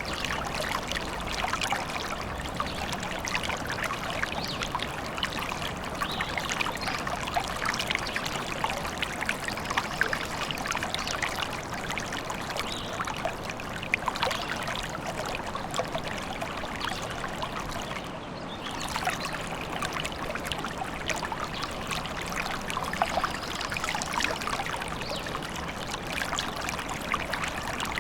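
Small stream trickling and splashing steadily.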